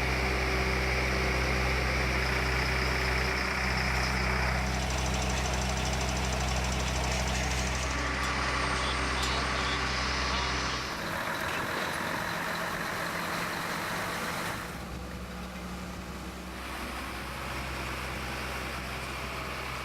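An engine idling with a steady low hum, its tone and level changing abruptly several times, at about 4, 11, 15 and 17 seconds in.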